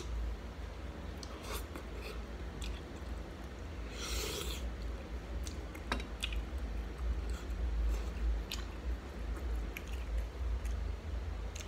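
Close-up mouth sounds of a person eating shrimp with the fingers: chewing, with wet smacks and clicks, over a steady low hum. A hissing burst comes about four seconds in and a sharp click about six seconds in.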